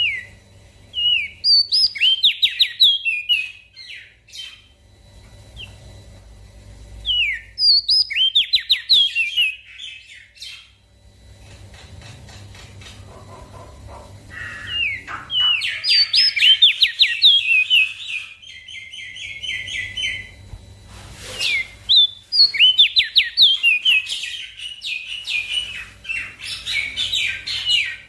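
Opior jambul (crested darkeye) singing energetically: several bursts of rapid, high chirping notes, each phrase lasting a few seconds with short pauses between.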